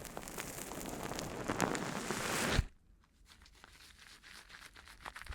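Close, crackling rustle of something being crumpled or torn, building up and then cutting off abruptly about two and a half seconds in. Softer scattered crackles and ticks follow.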